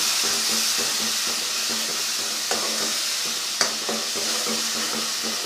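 Onion-tomato masala with ground spices sizzling in oil in a pan as it is stirred and fried, with a couple of light knocks a few seconds in.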